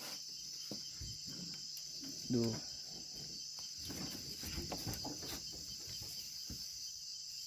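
Steady insect chorus, crickets, a continuous high-pitched shrill.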